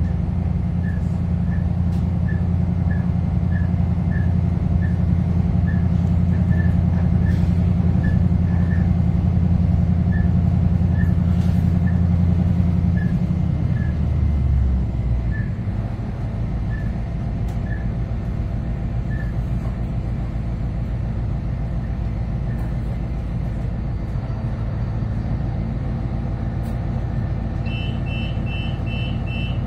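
Cabin sound of a 3000 class diesel-electric railcar under way: the diesel engine's steady low drone drops away about halfway through as power comes off and the railcar runs on more quietly, with the wheels rumbling on the track. A repeated electronic beeping starts near the end as the railcar draws alongside a platform.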